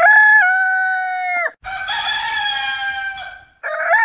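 Rooster crowing: three long crows one after another, each about two seconds. The first and last are the same recorded crow played twice.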